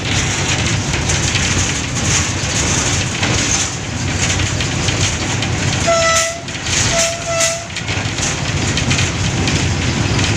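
Passenger train running through a station, with a steady rumble of wheels on the track. The diesel locomotive's horn sounds about six seconds in: one half-second blast, then two short toots close together.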